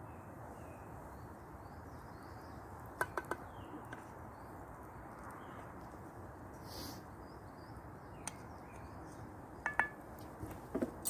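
Small birds chirping faintly over a steady background hiss, with a few sharp clicks about three seconds in and again near the end.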